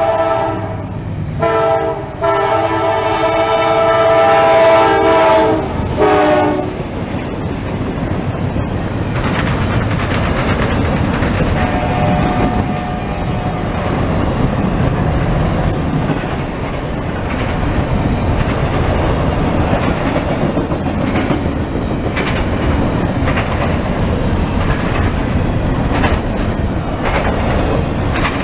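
Freight locomotive's multi-chime air horn sounding at a grade crossing: two short blasts, then a long one that stops about six and a half seconds in. After that comes the steady rumble and clickety-clack of double-stack intermodal container cars rolling past.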